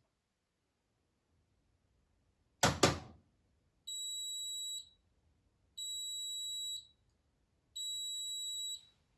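Privileg washing machine's end-of-cycle signal: a sharp double click, then three steady high beeps of about a second each, roughly two seconds apart, signalling that the spin programme has finished.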